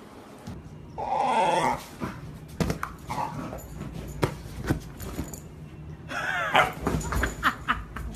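A dog whining: one wavering cry about a second in and another, rising and falling, near 6 seconds, with scattered knocks and taps between.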